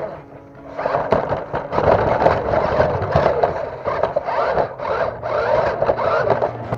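Small 1:18-scale RC rock crawler's electric motor and gears whining and scraping in uneven surges, the pitch quickly rising and falling as the throttle is worked.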